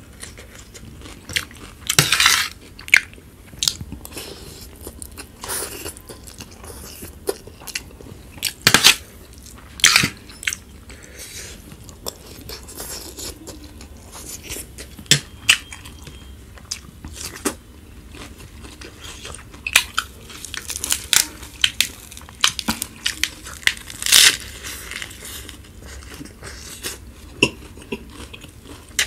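Close-miked eating: irregular crisp crunches and chewing of raw cucumber and lettuce, and mouthfuls of spicy instant noodles, with a fork now and then clicking on the plate. A few louder crunches come about two seconds in, around nine to ten seconds and about 24 seconds in.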